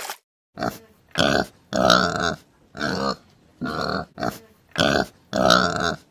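An animal's short calls, about seven in a row, repeated at a steady pace.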